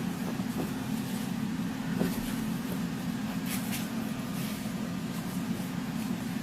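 Steady low hum with a few faint clicks about two to four and a half seconds in.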